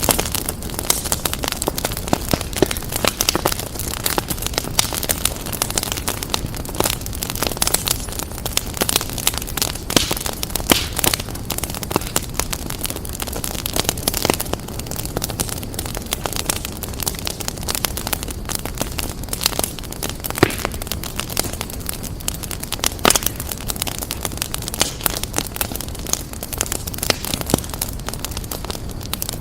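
Wood fire crackling: a steady hiss of burning, with dense, irregular snaps and a handful of louder pops.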